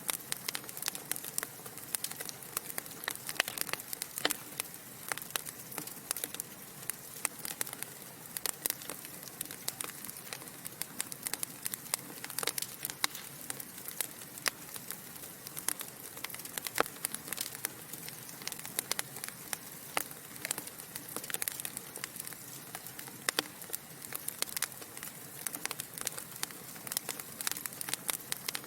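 Logs burning in a fireplace, crackling: frequent irregular sharp pops and snaps over a soft steady hiss.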